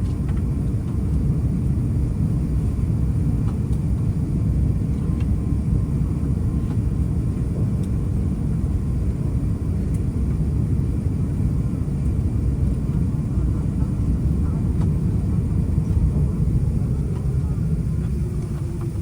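Steady low rumble inside the cabin of an Airbus A350-900 rolling on the ground after landing.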